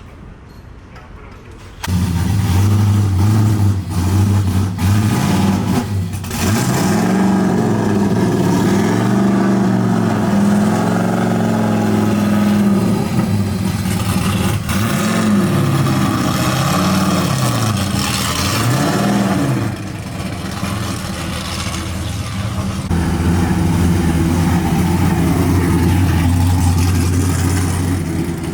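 High-powered drift car engine cutting in suddenly about two seconds in, its revs swinging up and down again and again, then holding a steadier note for the last few seconds.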